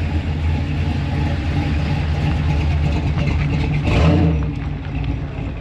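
Vehicle engine running with a steady deep hum, swelling louder briefly about four seconds in.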